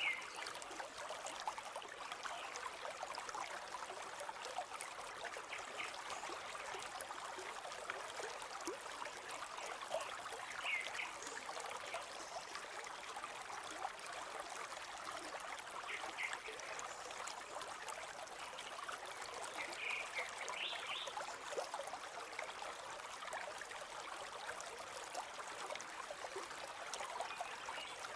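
River water flowing steadily, a constant trickling rush, with a few short bird chirps scattered through.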